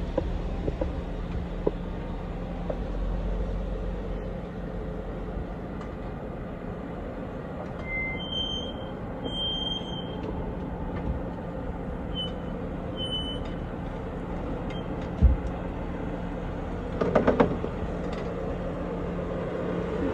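Jeep engine running low and steady while crawling off-road, with a few short high squeaks in the middle. A single thump comes about two-thirds of the way in, and a short rattle of knocks follows near the end.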